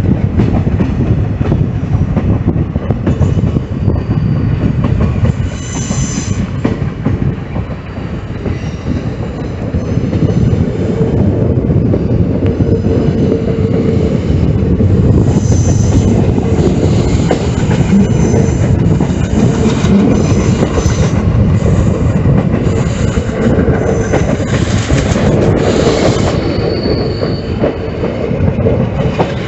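Train running on the rails with a steady heavy rumble of wheels on track. High-pitched wheel squeals come and go, briefly around a quarter of the way in and repeatedly through the second half.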